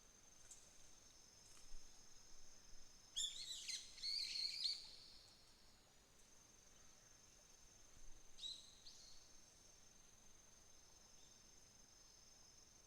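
Faint, steady high-pitched trilling of autumn insects, with a small bird breaking in with a short burst of song about three seconds in and a briefer call around eight seconds.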